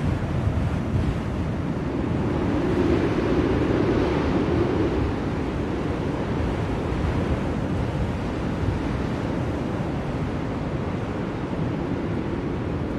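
Blizzard wind blowing, a steady low rushing noise that swells into a stronger gust a few seconds in, then settles.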